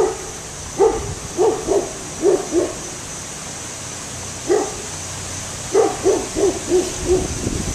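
An animal calling in a string of short, pitched calls, some in quick runs of two to six, over a steady background hiss.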